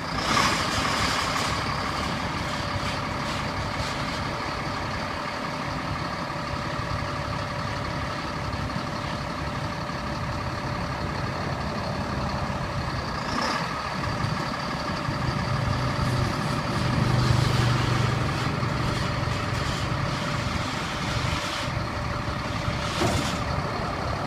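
1996 Freightliner roll-off truck's diesel engine running steadily, its low note swelling louder for a few seconds past the middle. Short hissing bursts come about a second in, around thirteen seconds, and near the end.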